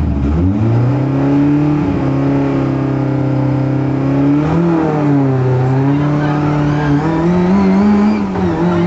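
Rally car engine heard from inside the cabin: the revs rise soon after the start and are held steady with the car standing at the start line. There is a brief waver in pitch around the middle, then the revs climb higher near the end as the car pulls away.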